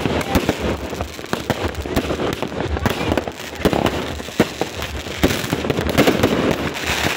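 Fireworks going off in a dense, continuous barrage: many sharp cracks and bangs overlapping with crackle.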